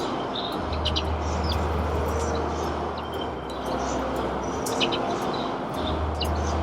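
Small birds chirping in short, scattered calls over steady outdoor background noise, with a low hum that comes and goes twice.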